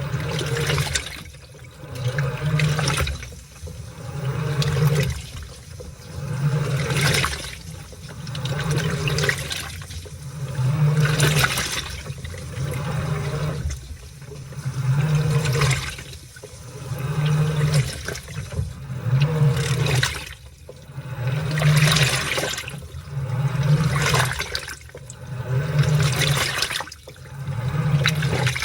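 Washing machine agitating a load of laundry in water: the motor hums and the water sloshes in regular swells about every two seconds as the drum or pulsator turns one way, pauses, and turns back.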